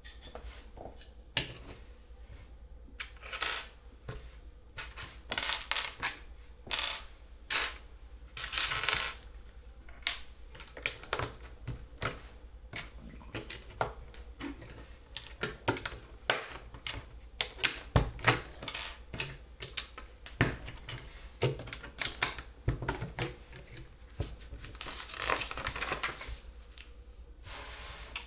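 Plastic LEGO pieces clicking and clattering as loose parts are picked through and snapped together: many irregular sharp clicks, with a few longer rattling stretches.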